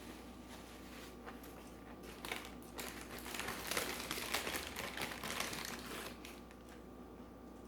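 Paper or plastic takeout packaging crinkling and rustling for a few seconds, loudest in the middle.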